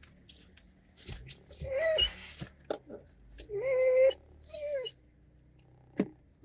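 A pet animal crying out three times in drawn-out, pitched calls, the second the longest and steadiest, with a few light knocks in between.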